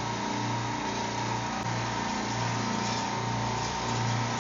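Refrigeration rack compressors running: a steady machine hum with a low throb that swells about once every second and a steady whine above it.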